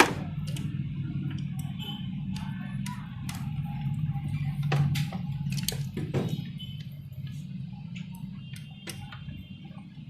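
Scattered sharp clicks and knocks of a copier's fuser unit being handled during repair, over a steady low hum.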